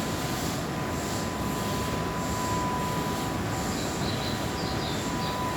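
Keihan electric train noise at the platform: a steady rumble with a thin, steady high whine, and a few faint squeaks about four to five seconds in.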